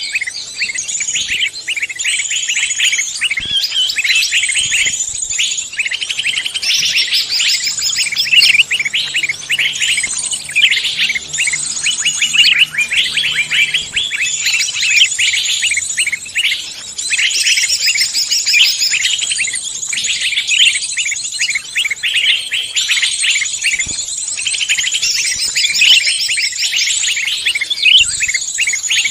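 Songbirds chirping and trilling, rapid overlapping high notes, with no pause.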